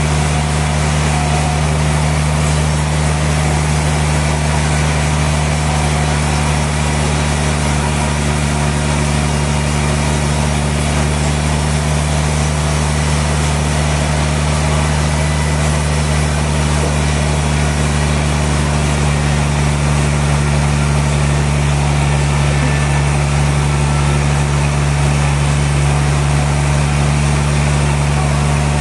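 Sawmill machinery running steadily: a constant low hum with a noisy mechanical wash over it, no change in pitch or load.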